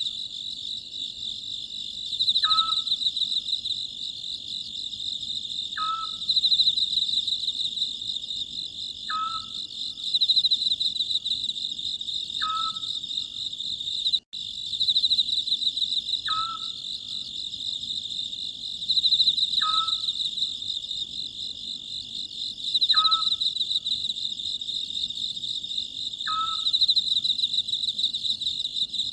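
Oriental scops owl giving its short call over and over, about every three and a half seconds, over a steady chorus of chirping crickets. All sound cuts out for an instant about halfway through.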